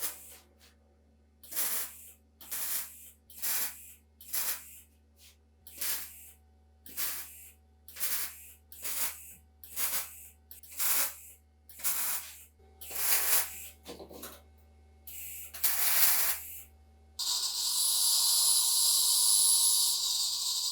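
Rhythmic hand-scrubbing strokes, about one and a half a second and each a short rasp, over a steady low hum. About seventeen seconds in they give way to a continuous hiss with a faint steady whine.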